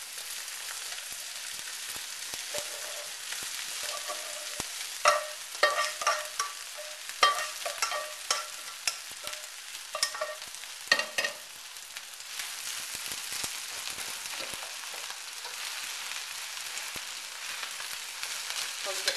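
Freshly cooked rice stir-frying in hot oil in a wok with garlic and spring onions: a steady sizzle, with a run of sharp, ringing knocks and scrapes of the stirring utensil against the wok from about five to eleven seconds in.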